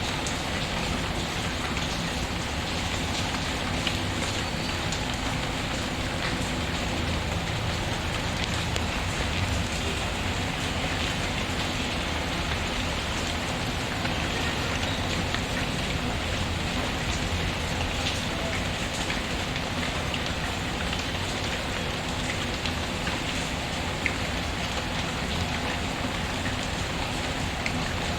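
Steady rain falling on a surface, mixed with a fireplace's wood fire, whose crackles come through now and then as faint short ticks.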